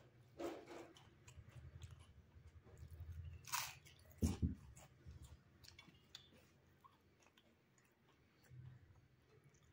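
A person chewing a mouthful close to a clip-on microphone, with a sharp crunch as he bites into a crisp papad about three and a half seconds in. The chewing dies down for a few seconds and starts again near the end.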